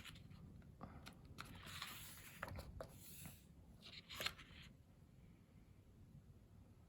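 Soft paper rustles and swishes as the pages of a photobook are handled and turned, a few short ones over the first four seconds or so, then near quiet.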